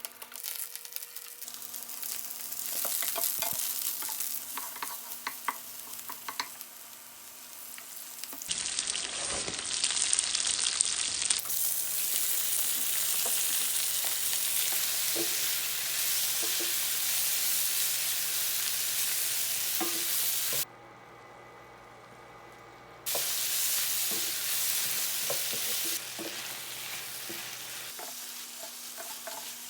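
Spicy gopchang (intestines) and sundae sizzling in a hot pan as they are stir-fried, with scattered clicks from the stirring. The sizzle changes abruptly several times and drops away for about two seconds about two-thirds of the way through.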